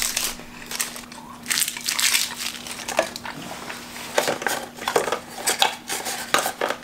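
Crunchy chewing of a snack close to the microphone, with irregular small clicks and rattles of tools being handled.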